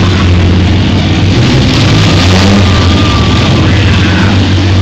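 Engines of several minivans in a demolition derby running together in a loud, steady din.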